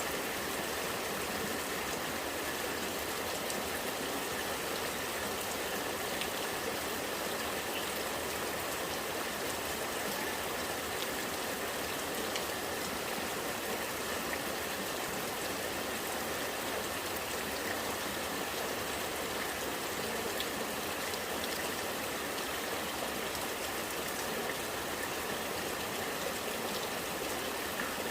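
Rainwater running and trickling steadily with rain falling, a continuous even rush of water with faint scattered drop ticks.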